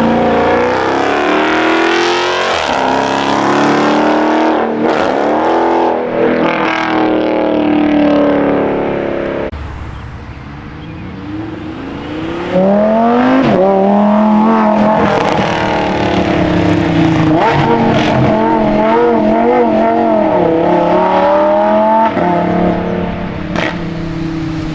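High-performance car engines revving hard, with tire squeal wavering in pitch. The sound drops off suddenly about nine seconds in and comes back loud a few seconds later.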